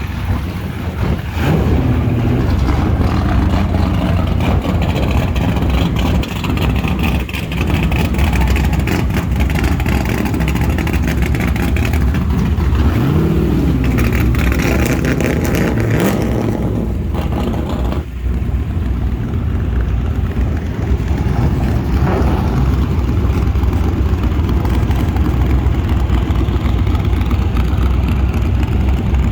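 Car engines running with a steady low rumble. About halfway through, one revs up and drops back down.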